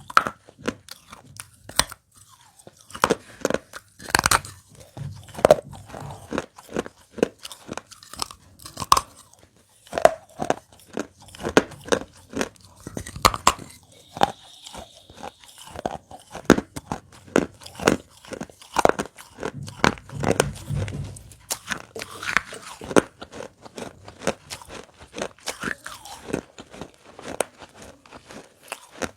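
A person biting and chewing pieces of broken baked-clay pot: a run of sharp, irregular crunches, a few heavier ones a little past the middle.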